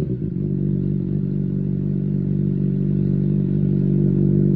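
2020 Honda CBR600RR's inline-four engine idling steadily through a Competition Werkes GP exhaust, the revs dropping back to idle right at the start.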